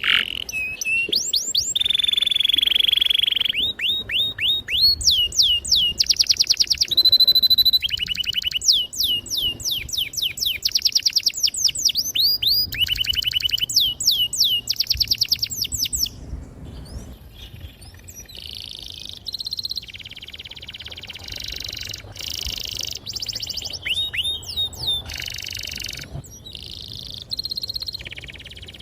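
Domestic canary singing: fast rolling trills of repeated falling whistle notes mixed with held steady whistles, turning to softer, buzzier phrases about halfway through.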